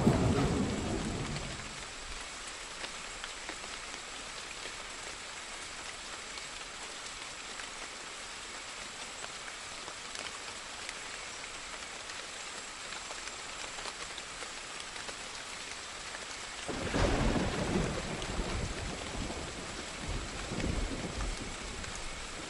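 Steady rain with rolling thunder: a rumble dies away in the first couple of seconds, and another thunder roll breaks out about two-thirds of the way in and rumbles on for several seconds.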